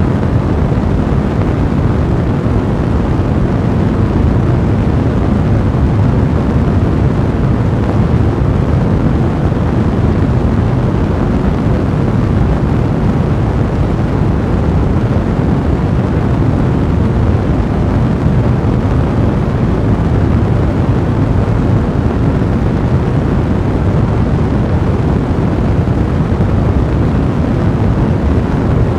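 Fire blazing in a fireplace: a steady, dense rush of flame noise, heaviest in the low end, with no breaks.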